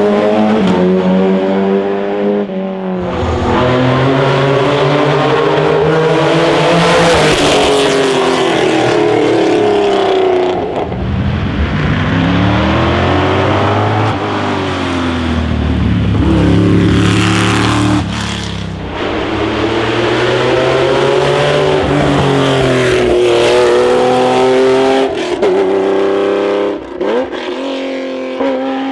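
Classic racing cars at full throttle up a hillclimb, engines revving high and changing gear, pitch climbing and dropping with each shift. Several cars pass in turn, each one's note rising and then falling as it goes by.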